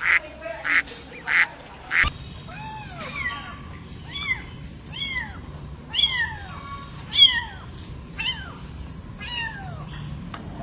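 A duck quacking a few times in short bursts. Then, after an abrupt cut, a cat meowing over and over, about one arched meow a second, each rising then falling in pitch.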